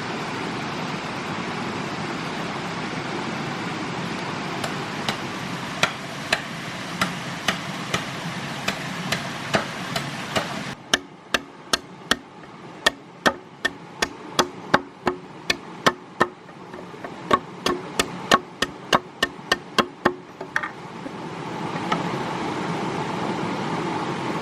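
Repeated hammer blows, about two a second, knocking on wood or bamboo during hut and table building, over a steady rushing background noise. The background drops out about eleven seconds in and returns near the end.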